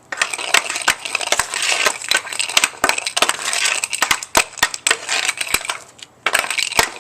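Hockey stick blade clicking and scraping a green biscuit (a plastic off-ice puck) back and forth on rough ground in rapid stick handling, with a short pause a little after six seconds.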